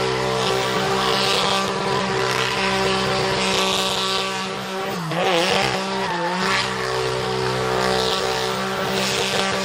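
Drift car engine held at high revs with tyres squealing. About five seconds in the revs drop briefly, then climb back.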